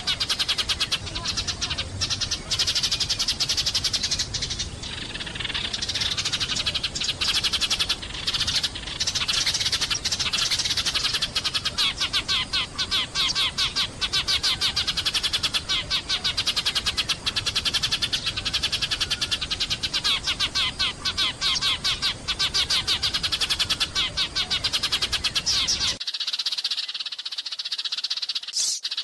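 A flock of sparrows chirping rapidly and continuously, many overlapping calls a second. About 26 s in, a low background rumble drops away while the chirping goes on.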